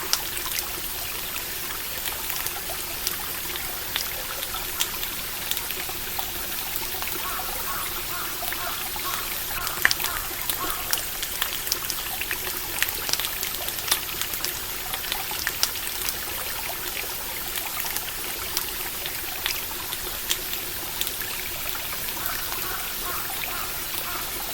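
Steady trickling, flowing water, with a campfire crackling over it in scattered sharp pops and snaps.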